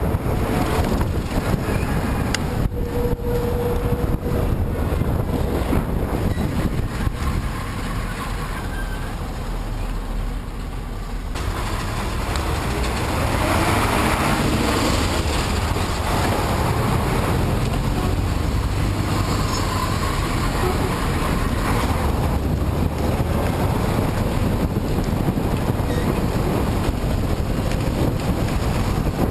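Wind buffeting the microphone of a camera on a moving bicycle ridden into a headwind, a steady low rumble with road noise under it, swelling louder about halfway through.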